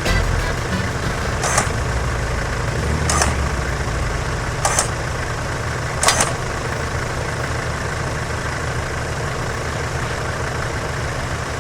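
Off-road vehicle engine running steadily, with four short sharp sounds about a second and a half apart in the first half.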